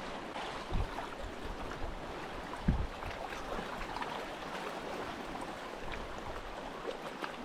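Strong sea current rushing and washing against rocks: a steady wash of water with faint crackles, and two soft low thumps about one and three seconds in.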